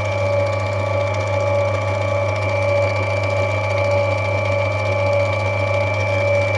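Electric lapidary grinding wheel running steadily while a rough opal is rubbed back on it: a continuous motor hum with a high steady whine and an even pulsing tone.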